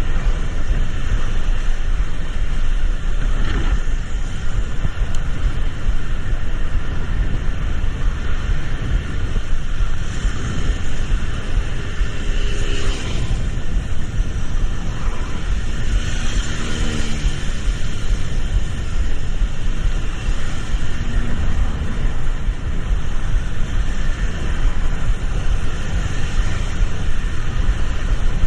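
Steady rumble and road noise of a vehicle on the move, with a few short tones near the middle.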